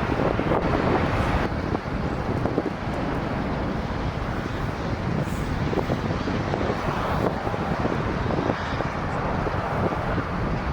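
Jet airliner engines running with a steady rumble, with wind buffeting the microphone.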